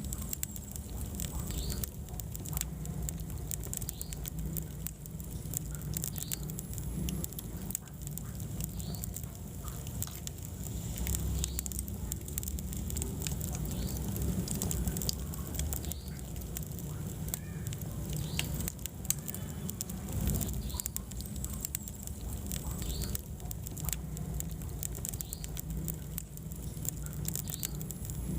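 Wood fire in a fireplace crackling, with many small irregular pops over a steady low rumble of the flames.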